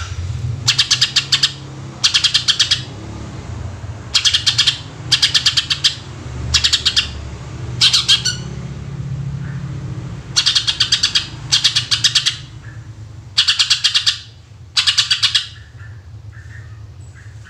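Green leafbird (cucak ijo) singing in short, sharp bursts of very rapid repeated notes, each burst under a second long and mostly coming in pairs, about ten bursts in all. A steady low hum runs underneath.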